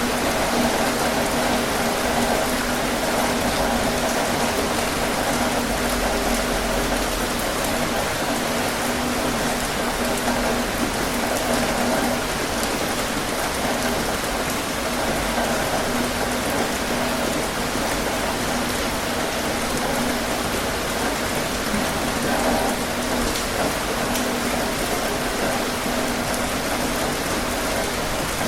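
Heavy rain drumming steadily on a tin roof, a dense even patter with scattered sharper drop ticks.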